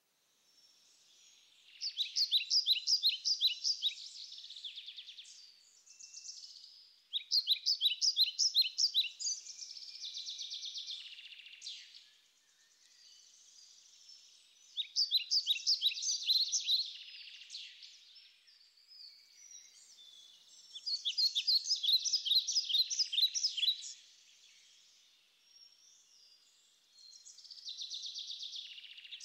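Bird song: a fast trilled phrase repeated about every six seconds, with softer twittering between the phrases.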